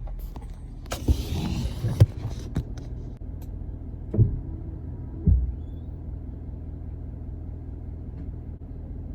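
Steady low rumble of a running diesel pickup truck, with a rustling clatter in the first two seconds and two dull thumps around four and five seconds in.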